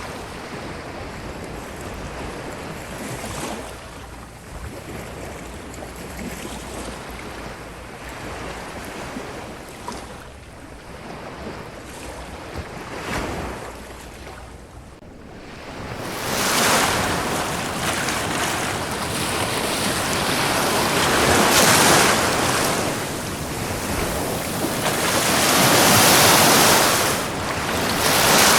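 Ocean surf, waves breaking and washing over a sandy shore. Soft for the first half, then louder about halfway through, with two big swells building and falling back near the end.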